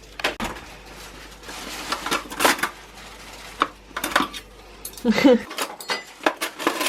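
Cutlery and crockery clinking and clattering in a string of sharp clinks, with a brief voice about five seconds in.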